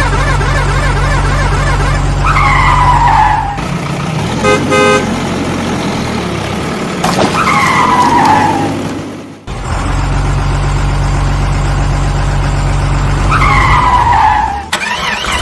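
Cartoon vehicle sound effects on a repeating loop: a low engine rumble, a falling squeal about every six seconds, and a short burst of horn toots about four and a half seconds in.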